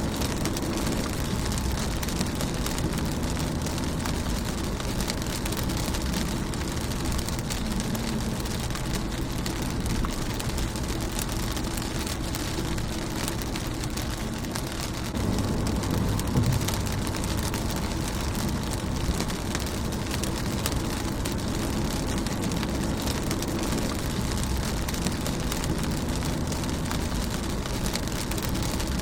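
Rain falling on a car's windshield: a steady patter of many small drops over a low rumble, swelling a little about halfway through.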